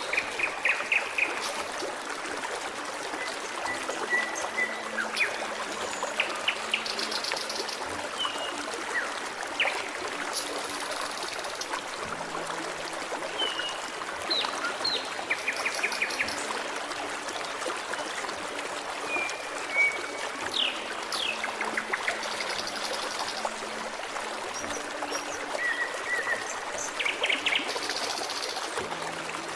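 Forest stream trickling and burbling steadily, with birds calling over it throughout: short chirps, rapid trills and quick downward-sliding whistles.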